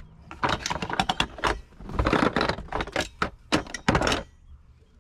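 Tools and plumbing parts being handled: a quick string of clicks, clinks and knocks, with longer rustling scrapes about two seconds in and again near the end.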